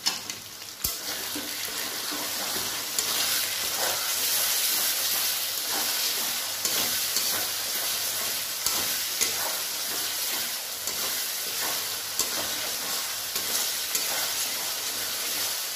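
Spice paste frying in oil in a metal kadai, sizzling steadily while a metal spatula stirs and scrapes it round the pan, with scattered taps of the spatula on the metal and a sharp clack about a second in. This is the masala being fried down (koshano) before the next spices go in.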